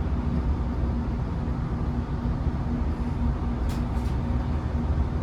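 Great Western Railway diesel multiple unit running with a steady low rumble and a constant hum.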